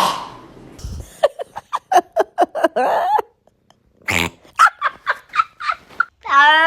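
A house cat vocalizing: two quick strings of short meow-like calls, then one longer meow near the end.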